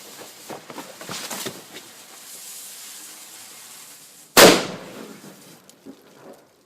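A lit firecracker's fuse hisses and sputters for about four seconds, then the firecracker goes off in a single sharp bang that rings out briefly.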